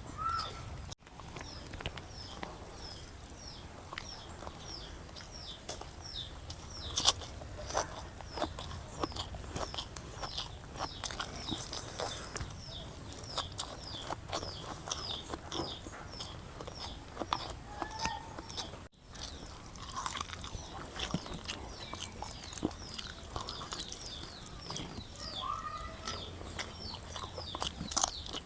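Close-up eating sounds: chewing, mouth clicks and smacks while eating chicken biryani by hand. A bird chirps over and over in the background, about twice a second, with a few brief calls between.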